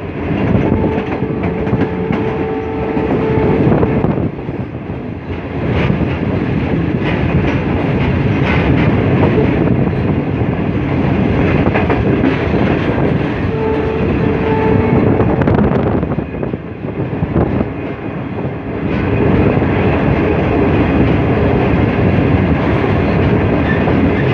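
Passenger train coaches running at speed over the rails, heard from an open doorway: continuous wheel-and-rail rumble and rattle with a rhythmic clickety-clack. A steady tone sounds over it twice, for about three seconds at the start and for about two seconds near the middle.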